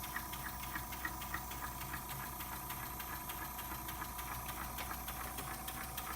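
Model walking beam engine running slowly on compressed air, ticking about three times a second with its strokes, over the steady hum of the air compressor that drives it.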